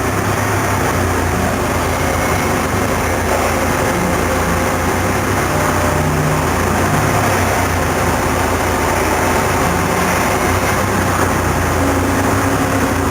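Okuma MCV16A double-column machining center running under power: a steady mechanical noise with low motor hums that shift in pitch and come and go every few seconds.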